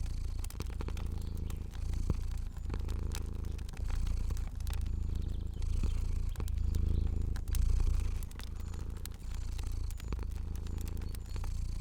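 Domestic cat purring, a low rumble that swells and dips with each breath, with scattered sharp crackles of a fire over it.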